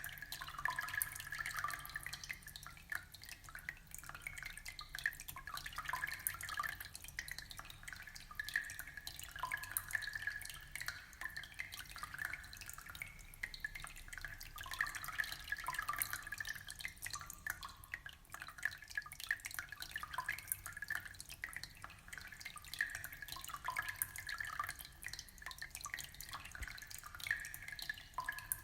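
Aquarium water trickling and dripping: a steady stream of small, irregular drips and plinks.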